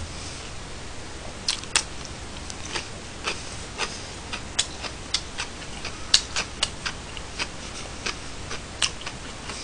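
Close-miked chewing with wet mouth clicks and lip smacks: sharp irregular clicks, roughly two a second, over a faint steady room hum.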